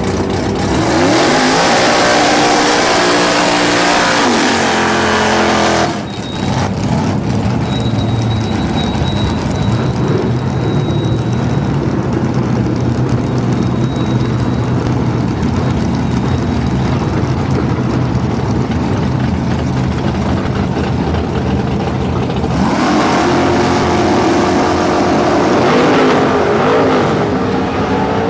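V8 engine of a Holden VL Calais drag car revving hard with rising pitch for about five seconds, then a steady engine drone. Near the end the revs climb again.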